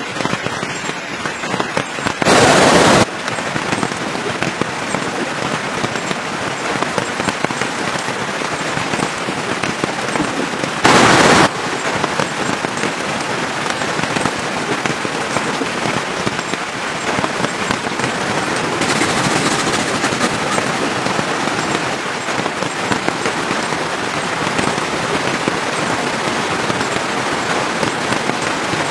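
Campfire crackling and popping without a break, with two short, loud rushes of noise, one about two seconds in and another about eleven seconds in.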